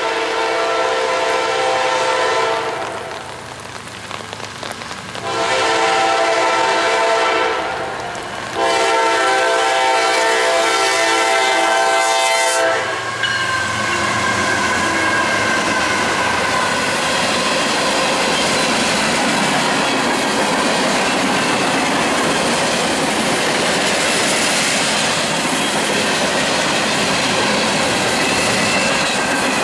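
Freight train's diesel locomotive horn sounding three long chord blasts, the last two almost run together, then the locomotives and a string of gondola cars passing close by with a steady rumble and wheels clacking over the rail joints.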